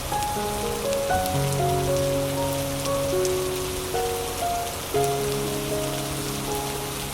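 Steady rain with a patter of small drops, under soft instrumental music of long held notes whose chords change every few seconds.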